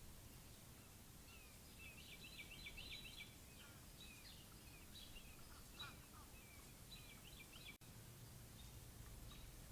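Faint songbirds chirping in quick clusters of short high notes over a low steady hum, with a brief dropout in the sound near the end.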